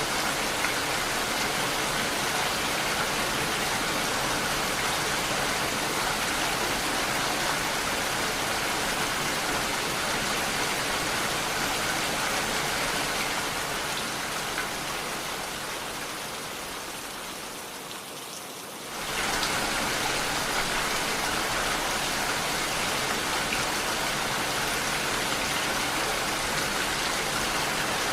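Steady heavy rain, an even hiss of falling water. About halfway through it fades down for a few seconds, then comes back at full strength all at once.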